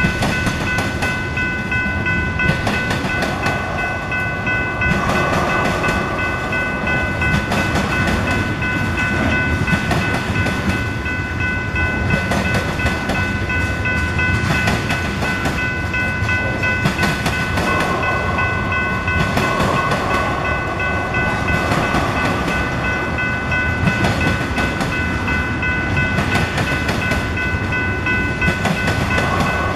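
Freight train tank cars rolling steadily past, wheels rumbling and clacking over the rails and a diamond crossing. Several steady high-pitched tones ring unchanged over the rumble.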